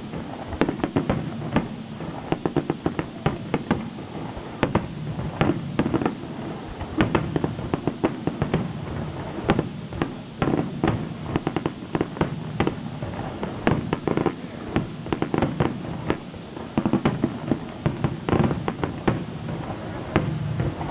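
Fireworks display: a dense, irregular run of sharp bangs and crackles, several a second, over a steady low rumble of bursting shells.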